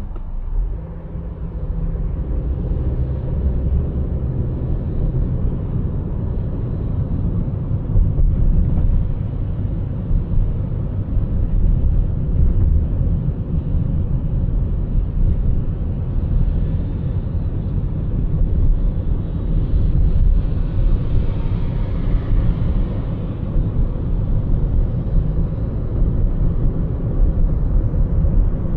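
Car driving on city roads: a steady low rumble of engine and tyre noise, with a hiss that swells and fades about two-thirds of the way through.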